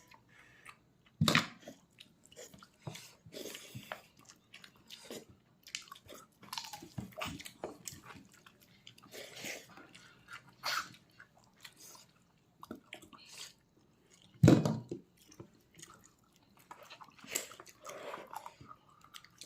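A person chewing and biting pork leg close to the microphone: irregular wet chewing and smacking sounds. Two much louder sudden knocks come about a second in and about three-quarters of the way through.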